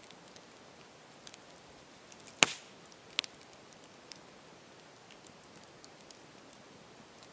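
Campfire burning with a low hiss and scattered small crackles, and a sharp loud pop from the burning wood about two and a half seconds in, then a smaller one a second later.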